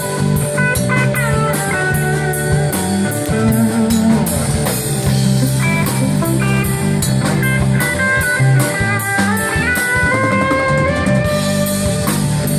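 Band playing an instrumental passage: electric guitar lead lines, with bends, over a steady drum-kit beat.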